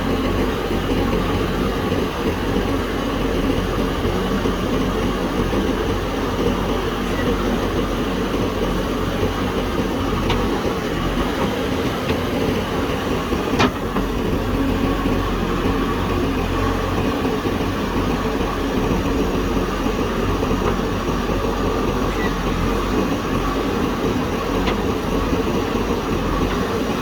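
JCB backhoe loader's diesel engine running steadily under work, with a single sharp knock about halfway through.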